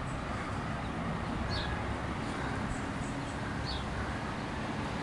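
Two short, high bird chirps about two seconds apart over a steady low outdoor rumble.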